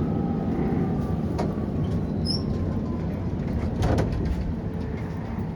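Interior running noise of a Prague tram: a steady low rumble under a faint electric whine that slowly falls in pitch, with two sharp knocks, about a second and a half in and again near four seconds.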